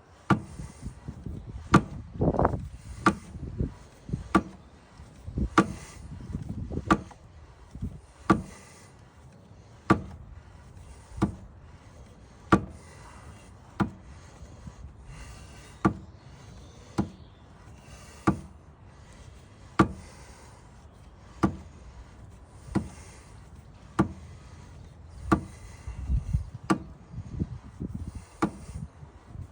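Sharp knocks at a steady pace, about one every 1.3 seconds, from work on a seized motorcycle centre stand, with rubbing and scraping between the knocks near the start and again near the end.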